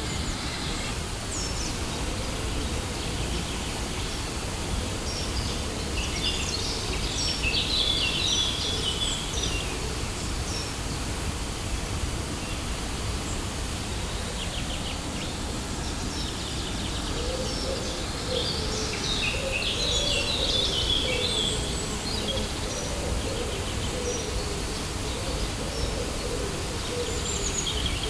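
Steady rush of a waterfall, with birds singing over it in two spells, the first a few seconds in and the second about two-thirds of the way through.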